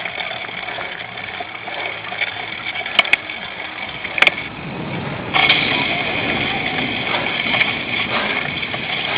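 Riding noise of a cyclocross bike picked up by a bike- or helmet-mounted camera: a steady rush of wind, tyres and rattling, with a few sharp knocks. About five seconds in the rush suddenly gets louder.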